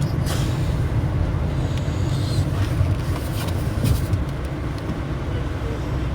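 Steady low rumble of a car, heard from inside the car, with a few faint knocks.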